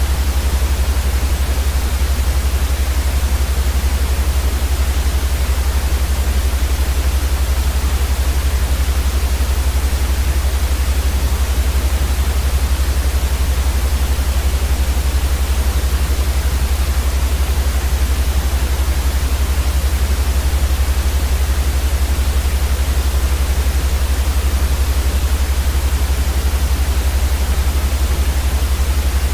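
Steady, unchanging white noise for sleep: an even hiss across the whole range over a strong low rumble, with no breaks or changes.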